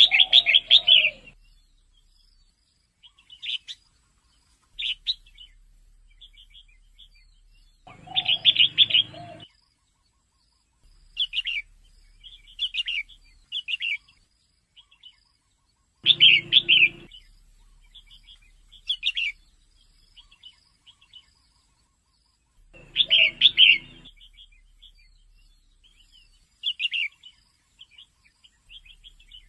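Female red-whiskered bulbul calling: loud chattering bursts of chirps about every seven or eight seconds, with short scattered chirps in between.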